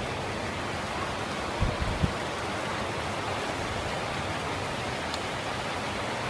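Steady rushing noise with two brief low thumps about two seconds in.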